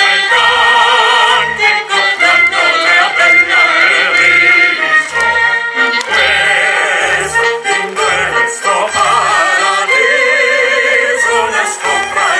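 Operatic singing with strong vibrato, accompanied by a symphonic ensemble whose low bass notes keep a steady, regular beat.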